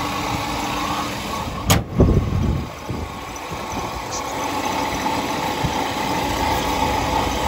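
Ford 260 cubic-inch two-barrel V8 idling steadily, with one sharp knock followed by a brief low thump about two seconds in.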